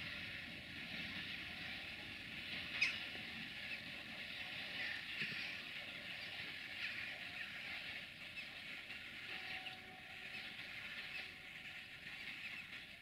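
Freight train of tank wagons rolling away in the distance: a faint steady hiss of wheels on rail with small squeaks, and one sharp click about three seconds in.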